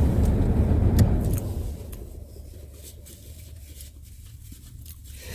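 Car engine running, then switched off about a second and a half in, its rumble dying away to a low background.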